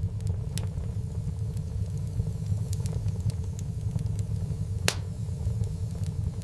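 Fireplace wood fire crackling with scattered pops, one sharper pop about five seconds in, over a steady low rumble.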